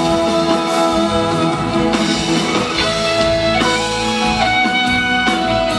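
Live band playing an instrumental passage between vocal lines, with guitar to the fore: held notes and some gliding notes over a steady band sound.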